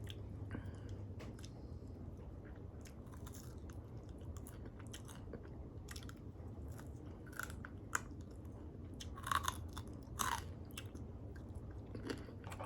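Close-up eating sounds of crispy air-fried lemon pepper chicken wings: wet chewing and lip smacking with scattered crunchy bites, the loudest a few about eight to ten seconds in. A low steady hum sits underneath.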